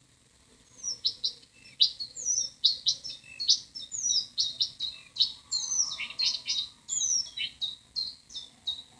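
Songbird song from recorded bird calls: a dense, fast run of high chirps and short downward-sliding notes, starting about a second in and cutting off abruptly at the end.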